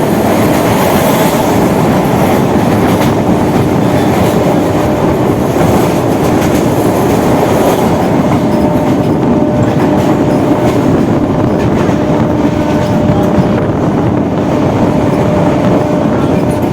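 Electric local train (EMU) running fast, heard on board: a loud, steady rumble of wheels on rails, with a faint steady hum underneath.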